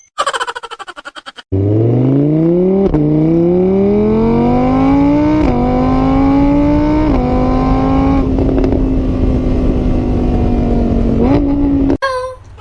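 Car engine accelerating hard through the gears, its pitch climbing and dropping back at each shift, then holding steady before it cuts off. It is preceded by a brief rapid pulsing of about ten beats a second.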